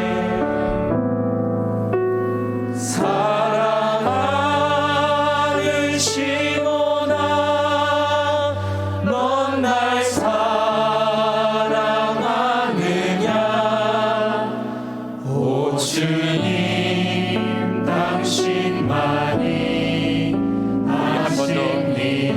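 Church praise band playing a slow passage: sustained keyboard and synth chords over bass, the chords changing every second or two, with a cymbal stroke every few seconds.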